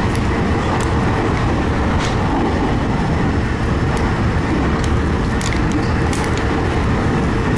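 Train running at speed, heard from inside the carriage in a long tunnel: a steady loud rumble and hiss with a faint steady hum and a few sharp ticks.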